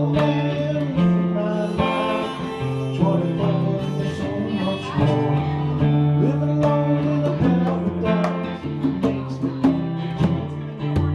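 Live music: guitar playing chords with held notes, and a voice singing over it.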